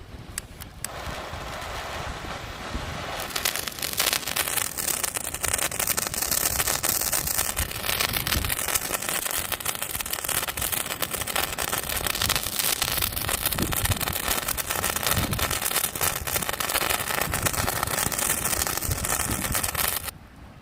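A handheld stick firework burning, spraying sparks with a steady hiss full of rapid crackling. It catches about a second in, grows stronger a couple of seconds later, and cuts off suddenly as it burns out near the end.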